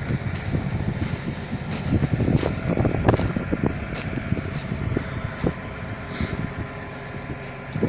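Caterpillar 320 long-reach excavator's diesel engine running steadily, with a rapid string of irregular knocks and clanks that is busiest a few seconds in.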